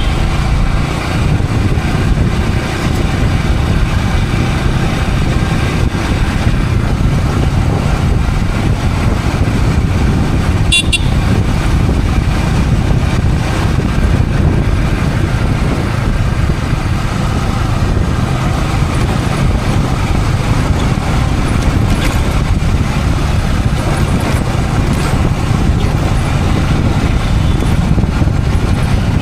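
Yamaha R15 V3's single-cylinder engine running steadily under way, mixed with wind and road noise on a helmet-mounted camera, in city traffic with horns. A short, high-pitched ring comes about eleven seconds in.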